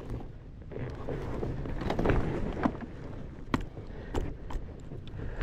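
KTM two-stroke enduro dirt bike engine running at varying revs on a rough trail, swelling about two seconds in. Several sharp knocks and clicks from the bike over the terrain.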